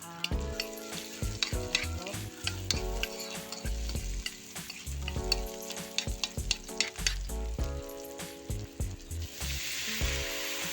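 Food sizzling as it fries in oil in a pan, with repeated clicks and scrapes of a utensil stirring it. The sizzle grows louder near the end. Background music plays underneath.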